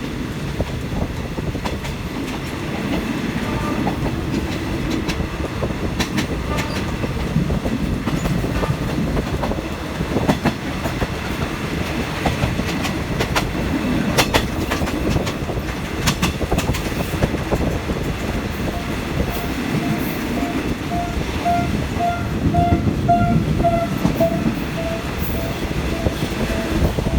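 Passenger train running along the track, a steady rumble with the clickety-clack of the wheels over rail joints. In the last several seconds a repeated ringing tone sounds about twice a second, rising slightly and then falling in pitch.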